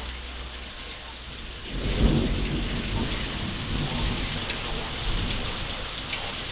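Heavy rain falling steadily in a thunderstorm. Just under two seconds in, a rumble of thunder rolls in and keeps rumbling, slowly easing off.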